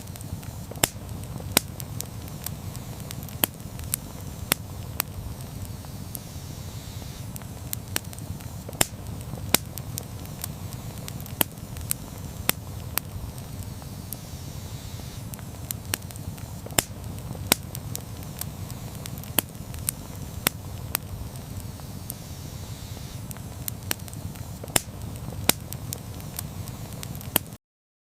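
Campfire burning: a steady low rumble of flames with sharp, irregular pops and crackles of burning wood, a few each second. The sound cuts off suddenly near the end.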